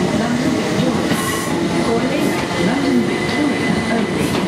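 Multiple-unit passenger train rolling slowly past a platform, with steady running noise and a few sharp clicks of the wheels over rail joints.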